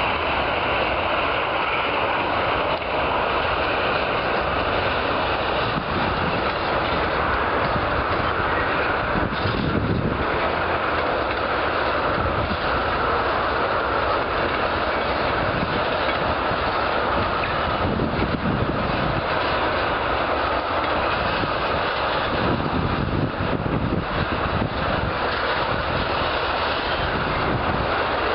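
Freight train of tank cars rolling past: a steady rumble and rattle of steel wheels on rail, with irregular clacks as wheels cross rail joints.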